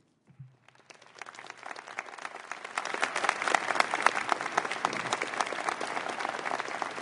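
Audience applauding in a large hall, many hands clapping. It starts about a second in, swells over the next two seconds and then holds steady.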